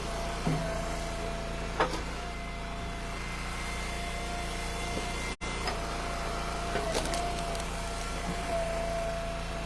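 Eastonmade Ultra log splitter's gas engine running steadily, with a few sharp cracks and knocks as ash rounds are split and the pieces land. The sound drops out for an instant about five seconds in.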